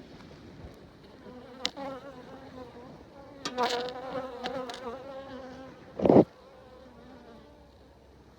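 Honeybees buzzing close by, a wavering hum that swells about a second and a half in and fades out near the end. A few sharp clicks and one loud, short thump about six seconds in.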